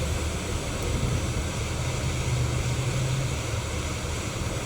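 Hot air rework station blowing steadily, with a low hum under an even rush of air, used to heat the board to lift the CPU.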